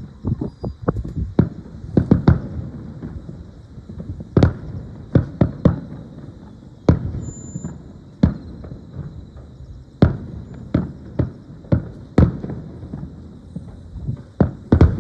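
Aerial fireworks shells bursting in an irregular string of sharp bangs, some in quick clusters, with a low rumble lingering between them.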